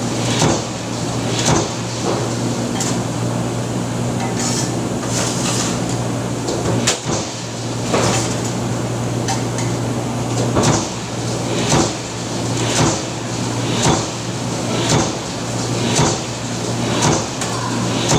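Mechanical stamping press running with a steady low hum and a sharp clunk of the ram about once a second as it stamps parts.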